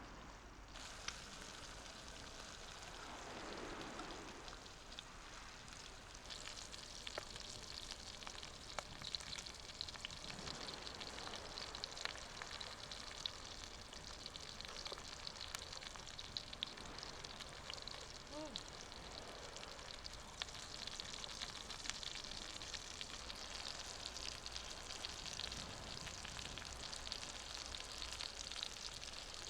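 Food sizzling in a hot pan. The sizzle starts about a second in, grows fuller a few seconds later, and is scattered with many small crackling pops.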